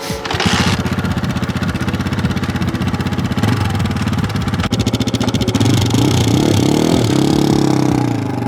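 Scout-6 motorcycle's Zongshen 172FMM single-cylinder four-stroke engine running with a quick, even firing beat after a short burst at the start. It is revved up about six seconds in and eases off near the end.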